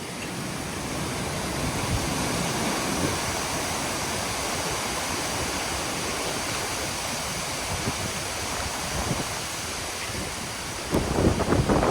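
Strong gusty wind after a thunderstorm blowing through pine trees, a steady rushing like a waterfall that swells over the first couple of seconds and then holds.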